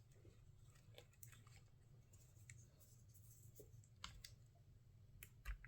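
Near silence with a few faint, sharp clicks and taps from small metal parts and tools being handled while a pinion gear is fitted to an RC truck's motor, the loudest near the end.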